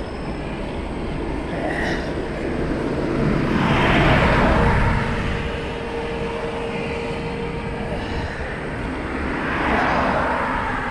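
Vehicles passing by: a steady rumble of traffic with two passes that swell and fade, the louder about four seconds in and another near the end.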